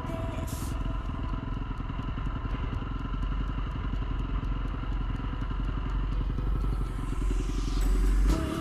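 Dirt bike engine running steadily while riding a trail, growing louder near the end, with music playing underneath.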